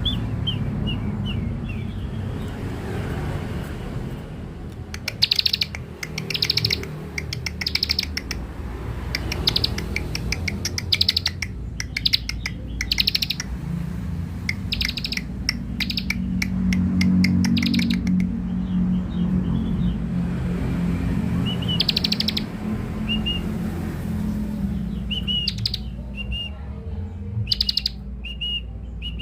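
Bar-winged prinia (ciblek) calling, used as a lure call: short high chirps at the start and near the end, and through the middle a run of rapid, dry rattling calls about a second long, repeated every second or two. A steady low hum lies underneath.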